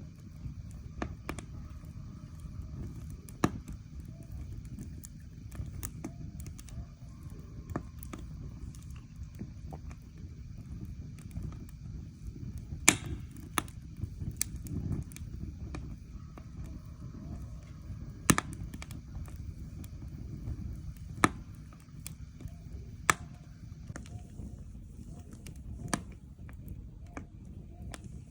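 Wood fire burning: a low steady rumble with irregular crackles and sharp pops of burning logs. A few louder snaps stand out, the loudest about halfway through.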